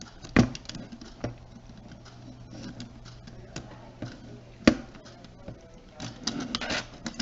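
Plastic housing pieces of a camcorder being handled and fitted together, with sharp clicks and knocks, the loudest about half a second and about four and a half seconds in, and lighter handling sounds near the end.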